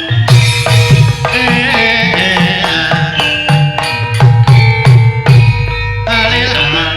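Javanese gamelan music: metallophones struck in ringing notes over a kendang hand drum, with a wavering melodic line above.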